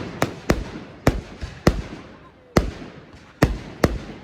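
Fireworks display: a rapid, irregular series of sharp bangs from bursting shells, about eight in four seconds, each followed by a fading rumble and crackle.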